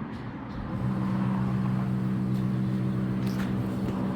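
A steady low mechanical hum, like an idling vehicle engine, comes in about a second in and holds at one even pitch.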